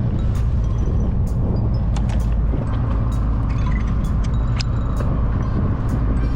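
Steady low drone of a fishing boat's diesel engine or generator, with scattered light clicks and knocks of tackle handling.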